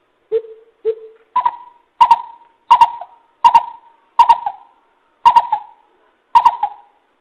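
Coucal calling in a series of deep hoots. Two soft, lower notes come first, then seven louder, higher hoots follow at a slow, fairly even pace.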